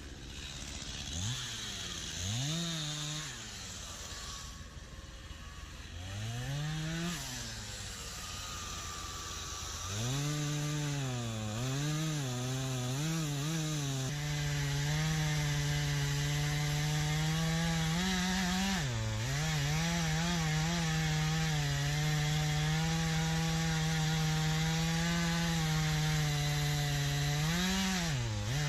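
Stihl MS251 C two-stroke chainsaw revved in several short blips, then held at a steady high speed while cutting into pine wood for most of the rest, dropping off briefly about 19 seconds in and again near the end.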